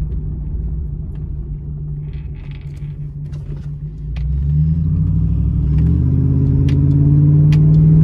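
Pickup truck's loud exhaust droning as it is driven, heard from inside the cab. About four seconds in, the engine pulls harder and the note gets louder and rises slightly as the truck accelerates.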